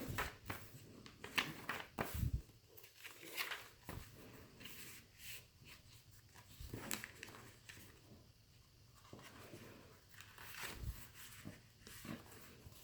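Paper and card pages of a handmade junk journal being handled and turned: irregular rustles and light taps.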